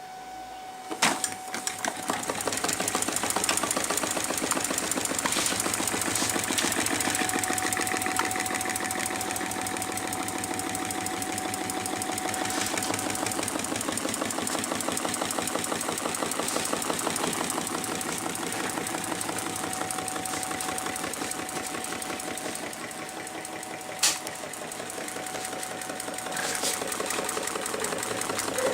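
Homemade mechanical Stirling engine starting about a second in with a sharp click, then running fast with a rapid, even mechanical clatter. A second sharp click comes near the end.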